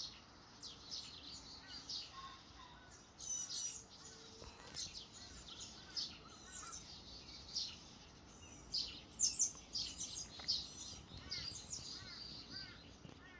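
Small songbirds chirping and calling: many short, high chirps, some dropping in pitch, scattered throughout and busiest about nine to ten seconds in.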